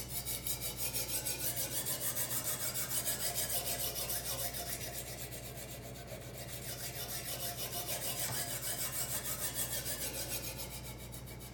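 Diamond sharpening stone on a guided-rod knife sharpener scraping quickly back and forth across a kitchen knife's steel edge, about three or four strokes a second, easing slightly about halfway through. It is the coarse first stone, the one that reprofiles the edge and raises the burr.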